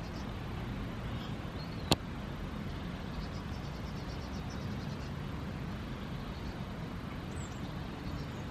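Steady low rumble of wind and road noise while riding a bicycle outdoors, with one sharp click about two seconds in.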